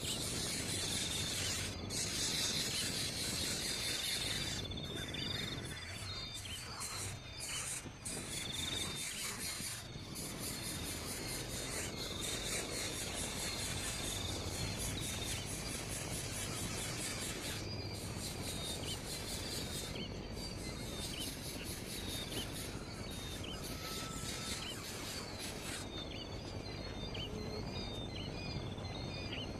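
Small birds chirping with short repeated calls over a steady buzzing of insects in the background.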